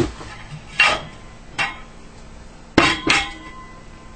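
Glass hookah vase knocking and clinking as a hookah stem is tried in it and will not fit: about five sharp knocks, the last two close together near three seconds in.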